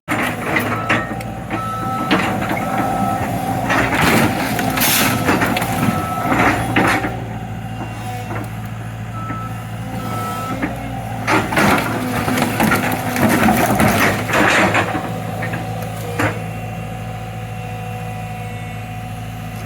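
Excavator's diesel engine running steadily while its bucket crushes a car body. Loud crunching and scraping of sheet metal comes in two spells, with short metallic squeals.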